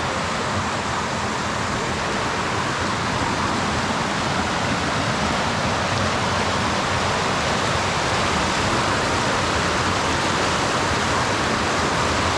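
Steady rushing of a mountain river's water over rocks and cascades, growing slightly louder.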